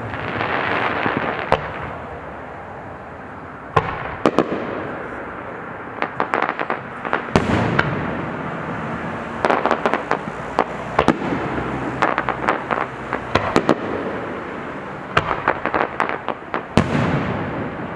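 Aerial fireworks: sharp booms of shells bursting, each trailing a long rolling echo, mixed with rapid crackling salutes in several clusters.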